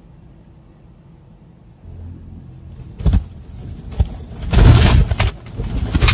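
A truck crashing: a low vehicle rumble, then a sharp bang about three seconds in, and a second and a half later a loud crash with clattering and banging.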